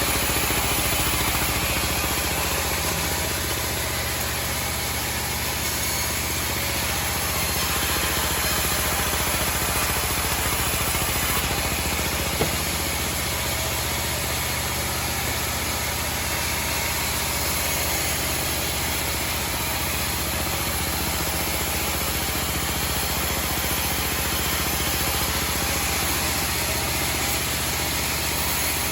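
Homemade engine-driven band sawmill running steadily, with one short sharp click about twelve seconds in.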